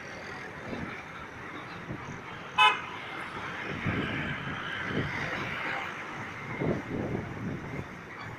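A single brief, high-pitched horn toot about two and a half seconds in, over a steady background rumble of moving vehicles.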